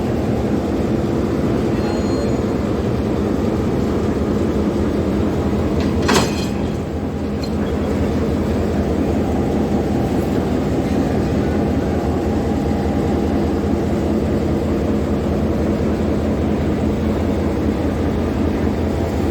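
Class M6 diesel locomotive's engine running steadily at a standstill. A single sharp clank comes about six seconds in.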